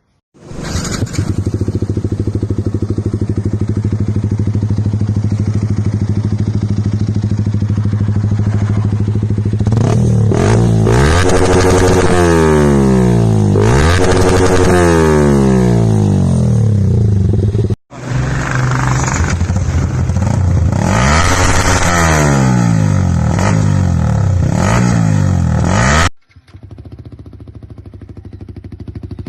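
Motorcycle engine with an aftermarket exhaust idling steadily, then revved again and again in quick rising and falling blips. The sound cuts off abruptly twice, about two-thirds of the way in and near the end, and after the last cut a quieter idle is left.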